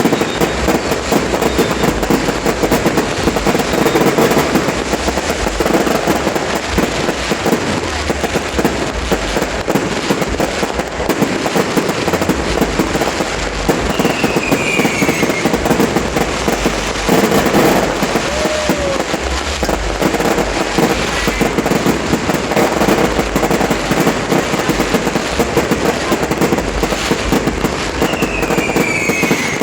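Aerial fireworks going off in a dense, continuous barrage of bangs and crackling, with two short falling whistles, one about halfway through and one near the end.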